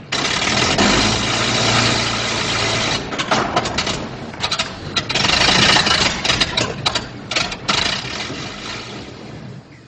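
Old open touring car's engine running unevenly on an old film soundtrack, with a run of quick sputters from about three seconds in as the car runs out of gas, fading near the end.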